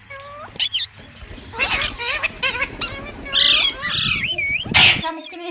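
Pet rose-ringed (Indian ringneck) parakeets chattering, with many short, quickly rising and falling squawks and chirps in close succession. A harsher, noisier burst comes near the end.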